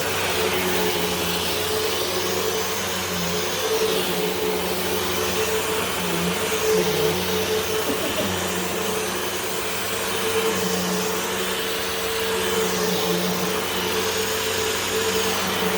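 Hoover WindTunnel 2 Whole House Rewind upright vacuum cleaner running steadily while being used, its motor hum constant, with the airy hiss swelling and fading every few seconds.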